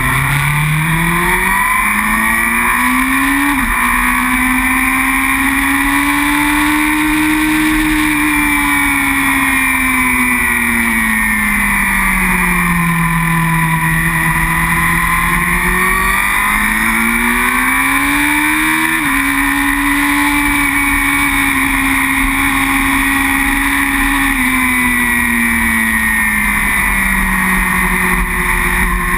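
Racing superbike engine under the rider, heard onboard: it revs up and drops sharply on upshifts about 4 s in and again near 19 s, holds a steady high pitch between, and sags to lower revs in between as the bike slows.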